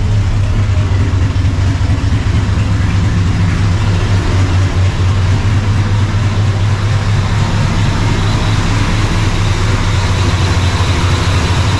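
Cammed, Procharger-supercharged 5.4-based V8 of a 1999 Mustang GT idling steadily just after a cold start, with no revving.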